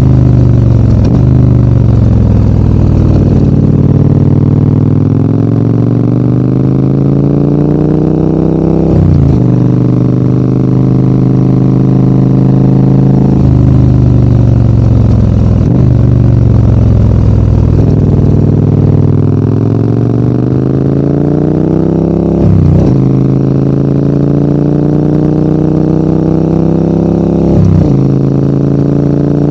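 Adventure motorcycle engine pulling uphill. It revs up through the gears, with the pitch dropping sharply at each of several gear changes, and eases off into steadier or falling stretches between.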